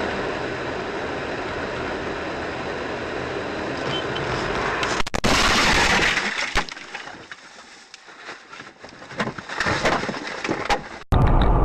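Car collision: steady road noise, then about five seconds in a loud crash with glass breaking, followed by fainter scattered knocks.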